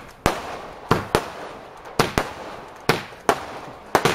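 Fireworks going off in a quick, irregular series of about eight sharp bangs, each trailing a short echo.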